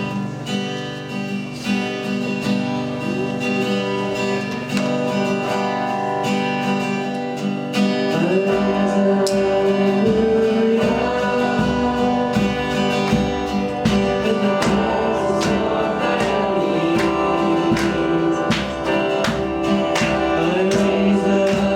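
Worship band music: a guitar-led introduction to a song, with a fuller low end and a steady beat coming in about eight seconds in.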